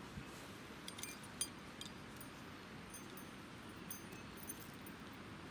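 Flint and steel strikes: a steel striker hit against a flint to throw sparks, heard as sharp, short metallic clicks. There are about half a dozen clicks at irregular intervals over low background hiss.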